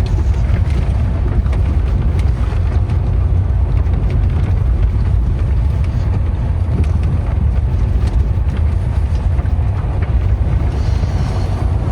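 Car driving over a rough, broken stretch of road: a steady low rumble of tyres and suspension with frequent small knocks and rattles.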